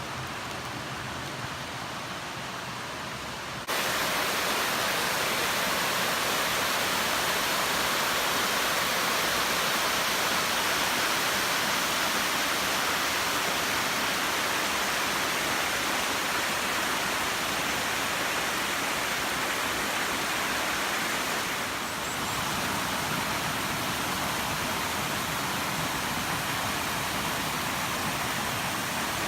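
Waterfall: a steady rush of falling water that abruptly gets louder about four seconds in, with a slight dip near the 22-second mark.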